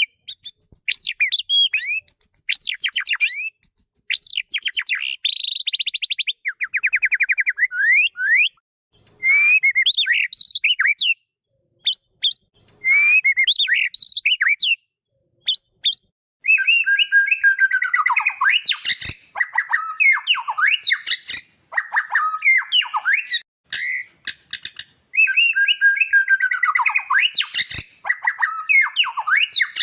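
White-rumped shama (murai batu) singing: varied phrases of quick whistles and a rapid trill in the first several seconds, a few short phrases with pauses between, then denser chattering phrases with falling swoops for the second half.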